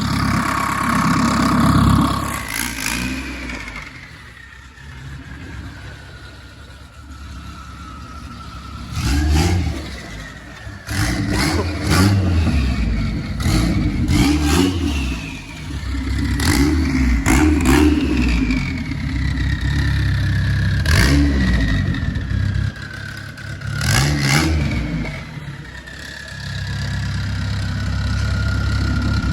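Big-turbo Dodge SRT-4's turbocharged 2.4-litre four-cylinder being revved in a string of sharp blips. After each blip comes a high whistle falling in pitch as the turbo spools down. Near the end it settles into a steady idle.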